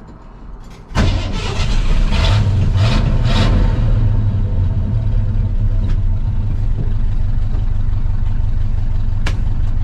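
1985 Ford F250 truck engine starting about a second in, revved three times, then settling into a steady idle. It is restarting after stalling, which the owner puts down to running out of gas.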